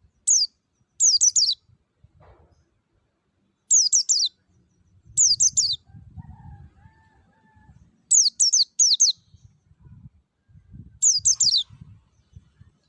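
White-eye (pleci) singing in a wild-type 'ngalas' style: about six short bursts of fast, high notes, each note sweeping downward, spaced a second or more apart.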